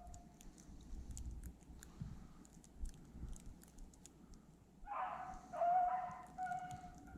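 Beagle baying on a rabbit's track, a string of drawn-out bawls starting about two-thirds of the way in; the hound is running the scent of a jumped cottontail. Faint scattered ticks in the quieter first half.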